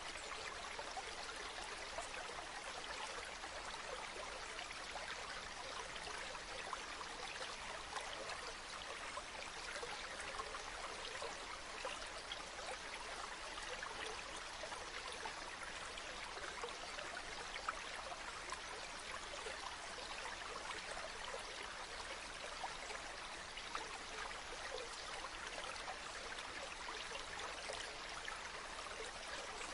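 A river or stream flowing steadily over stones, a continuous babbling and trickling of water.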